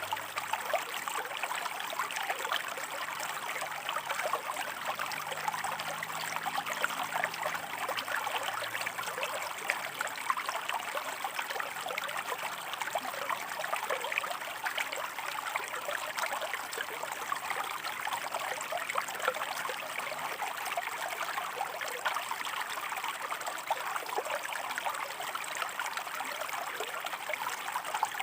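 A shallow stream running over rocks: a steady, even rush of water thick with small splashes and trickles.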